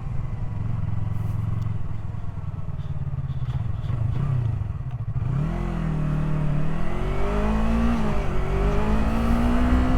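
Yamaha R3's parallel-twin engine idling steadily, then pulling away about five seconds in, its pitch climbing in steps with short dips as it accelerates through the gears.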